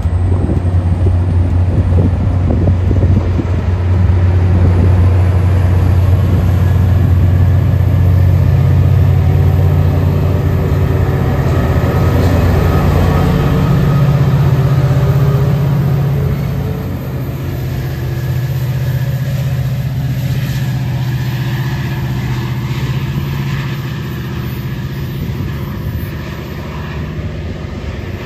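Diesel locomotive of a passenger train running at the station, a loud, deep engine drone that steps up in pitch about halfway through. A faint high whine rises over the first few seconds, and the sound eases off gradually toward the end.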